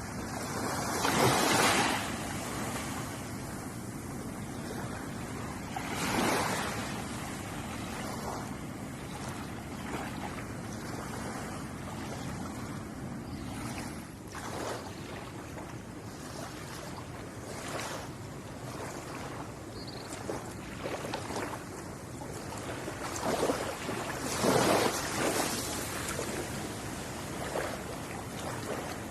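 Ocean waves washing onto a shore, with a steady background wash and louder surges of breaking water about a second in, around six seconds in, and a cluster near the end.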